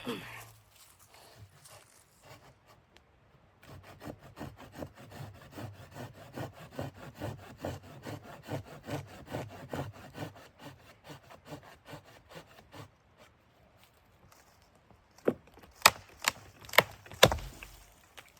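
Wood being cut with a hand saw: a fast, even run of rasping strokes, about four a second, lasting some nine seconds. After a pause, five sharp knocks near the end.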